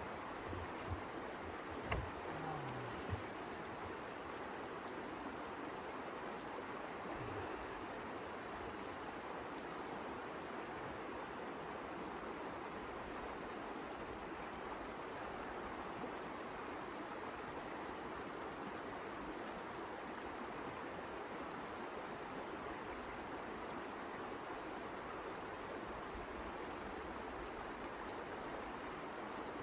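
Steady rushing noise of blizzard wind, even throughout, with a few soft knocks in the first three seconds.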